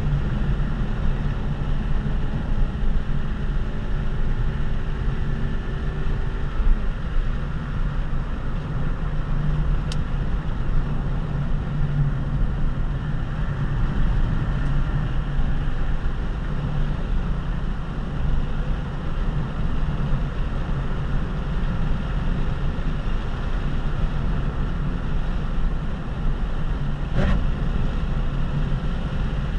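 Honda Civic Si coupe's 2.0-litre four-cylinder engine pulling steadily on the move, heard inside the cabin over tyre and wind noise.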